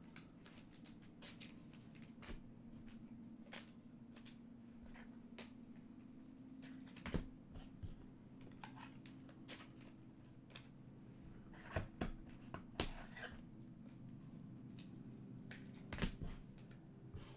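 Trading cards being handled on a table: scattered faint clicks and rustles of card stock, a few sharper ones now and then, over a low steady hum.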